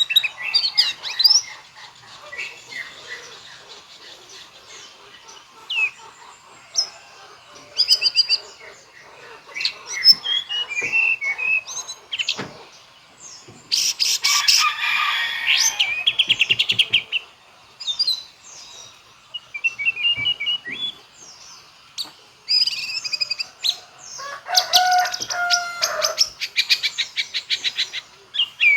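White-rumped shama singing a full, varied song in separate phrases of clear whistles and quick notes, with imitations of other birds' calls worked in. Two longer runs of rapid rattling trills come about halfway through and again near the end.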